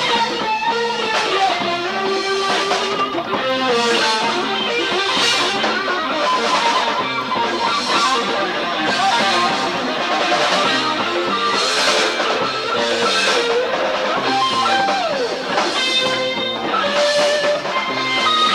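Live band playing an instrumental passage: a guitar plays a melodic lead with bent notes over drums, with cymbals washing on a steady beat.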